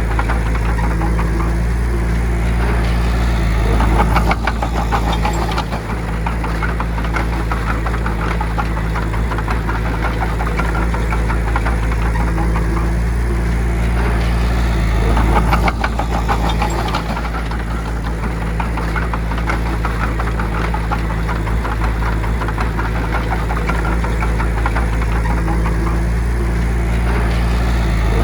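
Bulldozer's diesel engine running steadily under load, with a louder stretch of rapid clattering about every twelve seconds, near four, fifteen and twenty-seven seconds in.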